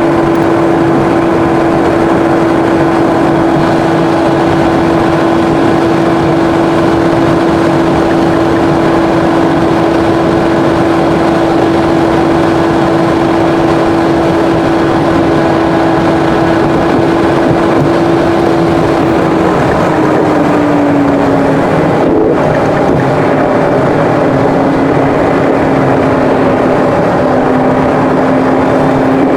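Car driving at speed on an expressway: a steady engine drone over tyre and wind noise. The engine note drops slightly in pitch about twenty seconds in.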